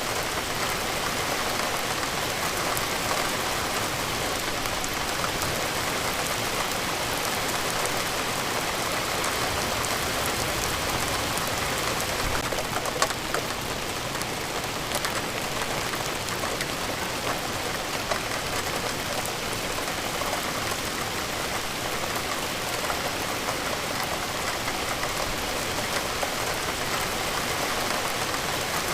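Steady rain falling, a dense even patter of drops on a hard surface with occasional louder single drops, notably about 13 seconds in and again about 18 seconds in.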